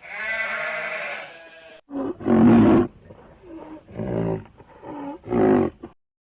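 A long bleat trails off. After a brief break come three short, loud, deep calls from a large animal, spaced about a second and a half apart.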